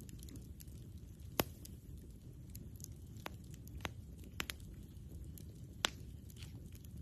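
Wood campfire burning with a low steady rumble and scattered sharp pops and crackles, the loudest about a second and a half in and another near six seconds.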